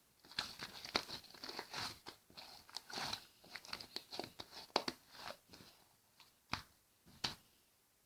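Slime being squished and worked by hand, a dense run of crackling and popping clicks that ends about five and a half seconds in, followed by two single sharp pops.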